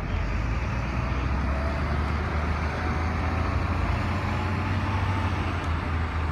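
A helicopter running on the ground nearby: a steady low drone with an even hiss above it, unchanging throughout.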